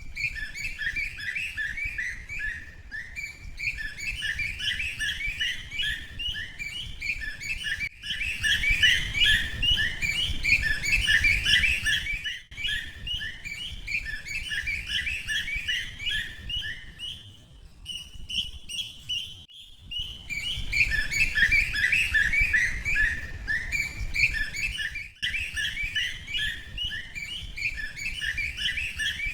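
Many birds chirping together in a dense, rapid chorus of high tweets, with a low rumble underneath. The chorus breaks off briefly a few times.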